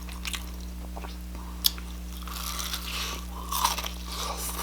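Close-miked eating sounds: a sharp click about a second and a half in, then crunchy bites and chewing.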